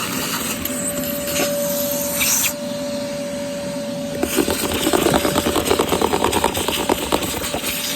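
Vacuum cleaner running with a steady whine as it sucks debris off car carpet. About halfway through, a rapid clatter starts as bits of debris rattle up the nozzle and hose.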